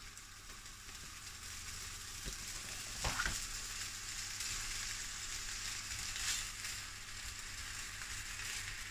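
Pea-protein vegetarian bacon rashers sizzling in hot rapeseed oil in a frying pan as they are laid in, the sizzle growing louder as more rashers go in, with a brief louder spurt about three seconds in.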